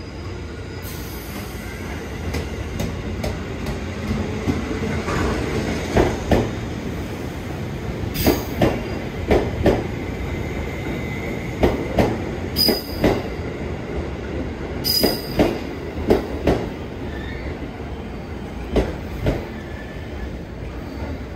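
JR 211-series electric trains running through the station: a steady rumble as a train rolls in alongside the platform, its wheels clicking over rail joints in regular pairs, with a few brief high squeals.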